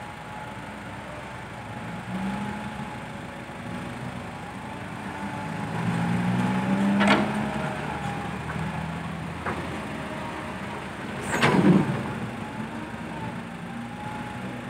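Heavy diesel machinery at an excavator and dump-truck dig running steadily, with a wavering whine over the engine and the engine working harder for a few seconds. Two loud sharp clanks ring out, about seven seconds in and again about eleven and a half seconds in.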